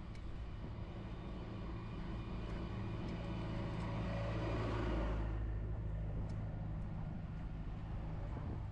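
A motor vehicle passing on the road, its noise swelling to a peak about five seconds in and then quickly falling away, over a steady low rumble.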